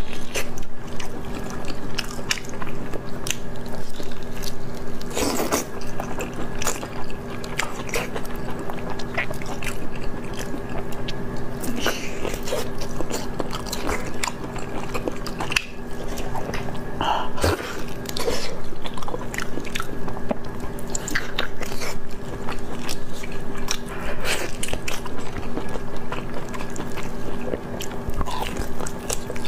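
Close-up eating sounds: a person biting into and chewing sticky glazed meat, with wet smacking and short irregular clicks, over a steady low hum.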